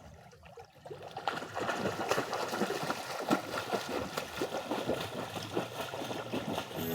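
Water splashing and trickling in a swimming pool: a dense run of small, irregular splashes that starts about a second in.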